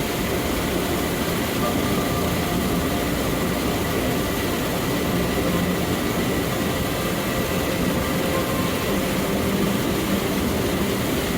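Steady roar of a two-tiered waterfall, about a 20 m drop, recorded binaurally, with soft ambient music faintly underneath.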